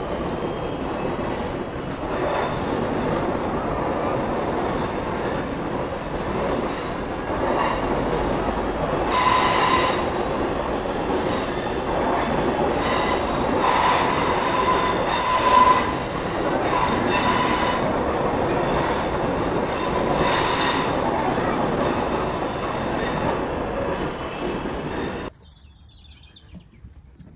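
Electric passenger train running past a station platform, a steady rumble with a high squeal from the wheels coming and going in several spells, loudest about 15 seconds in. The sound cuts off suddenly near the end.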